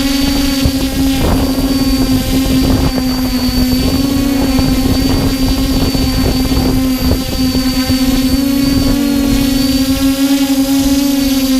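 XJ470 multirotor drone's propellers humming steadily in flight, the pitch wavering slightly up and down, with wind buffeting the microphone.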